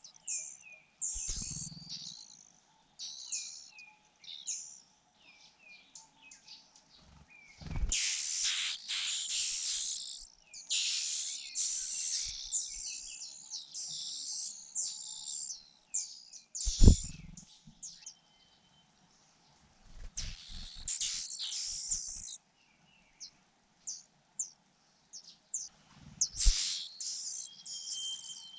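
Fujian niltava nestlings begging with rapid, high-pitched chirps that swell into loud clustered bursts several times, mixed with a few short thumps, the loudest about 17 seconds in.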